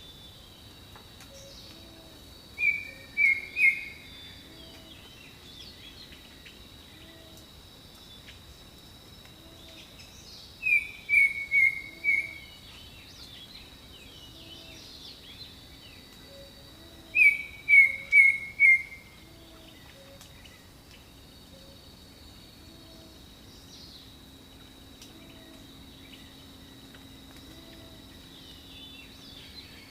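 Jungle ambience: a bird sings three loud phrases of three or four short, falling notes, about seven seconds apart, over a steady high insect drone. A soft low call repeats about every second and a half underneath.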